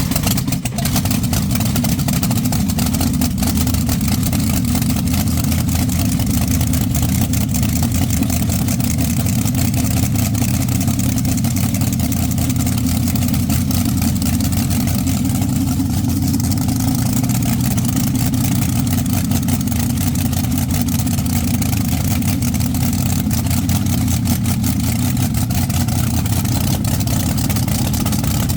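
Twin supercharged-dragster 392 Hemi V8 engines, coupled and running together on alcohol, idling steadily at an even level just after a cold start.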